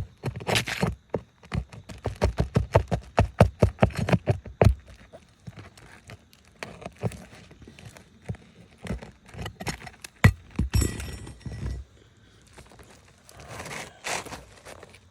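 Tools knocking and scraping on asphalt roof shingles as they are pried up: a quick run of sharp knocks for about the first five seconds, then scattered knocks and a scrape.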